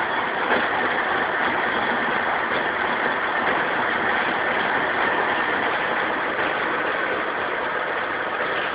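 Wartburg 353W's three-cylinder two-stroke engine idling steadily while its idle mixture is being set.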